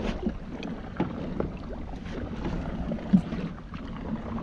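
Wind buffeting the microphone over open water, with a few light knocks and a sharper knock about three seconds in.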